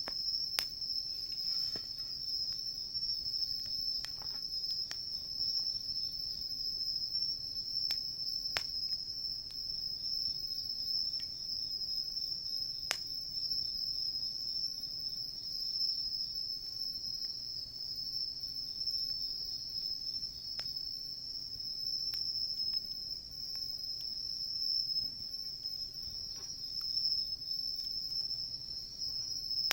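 A steady, continuous high chorus of crickets and other insects, with a wood campfire crackling in occasional sharp pops, the loudest about 13 seconds in.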